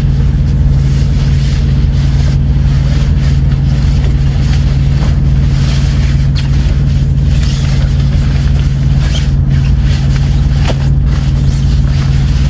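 Semi truck's diesel engine idling, heard inside the cab as a loud, steady low drone. Light rustling and scraping of a window covering being handled sits over it.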